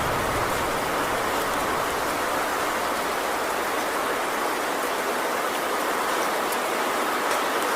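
Heavy rain falling steadily on a tin roof, with faint scattered drop ticks over the even hiss. A low rumble, the tail of thunder, fades out in the first second or so.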